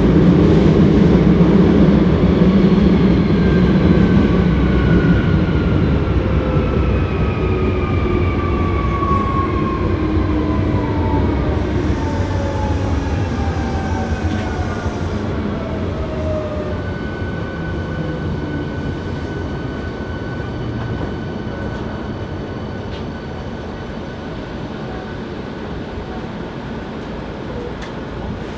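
Hankyu 7300 series electric train heard from inside the car while slowing down, on a car singled out for its unusual running sound. Its motor whine falls steadily in pitch and the wheel rumble fades. A steady high tone sets in about halfway through.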